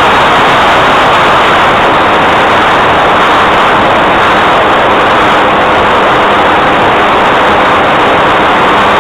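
Propeller plane in flight, heard from on board: a loud, steady drone of engine, propeller and rushing air that does not change.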